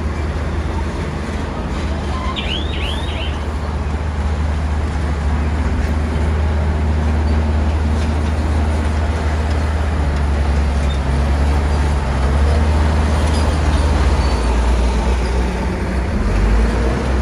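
Bulldozer's diesel engine running steadily under load, a deep hum with a noisy mechanical rush over it. A couple of brief high chirps sound about two and a half seconds in.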